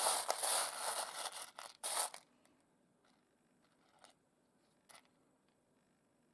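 Scraping and rustling as small rough opal pieces are handled and pushed about on a surface, stopping about two seconds in; then two brief faint clicks.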